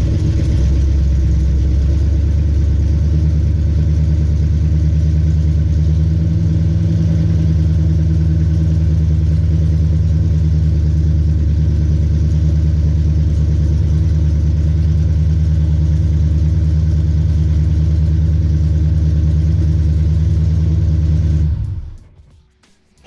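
Newly built Mopar 408 stroker V8 running steadily on one of its first starts, with its ignition timing newly set. It stops suddenly about 21 seconds in.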